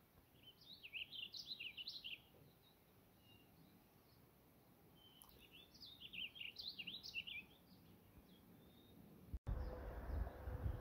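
A songbird sings two short phrases of quick, high chirping notes about five seconds apart over faint outdoor quiet. Near the end the sound cuts abruptly to a louder low rumbling noise.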